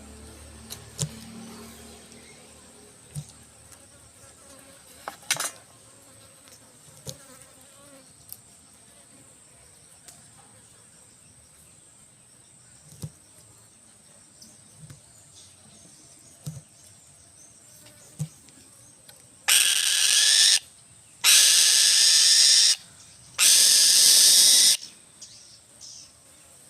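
Three loud, harsh, noisy screeches in quick succession, each about a second long, from a falcon. They come in the last third, after a stretch of faint scattered clicks over a steady high whine.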